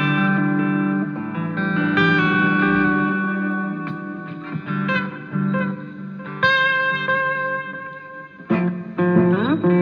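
Guitar playing sustained notes with overtones, changing notes every second or so, with a sound that points to an effects unit; near the end several pitches slide upward in quick succession.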